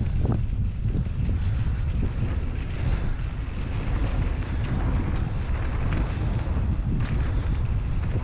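Wind buffeting the microphone of a moving bicycle rider, a steady low rumble with a few faint clicks from the ride.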